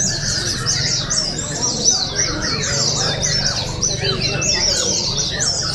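Several white-eyes (pleci) singing at once, a dense, unbroken stream of rapid high chirps and trills, over a steady low hum.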